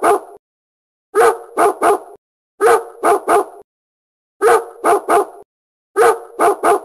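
Dog barking in quick bursts of three, a burst about every second and a half.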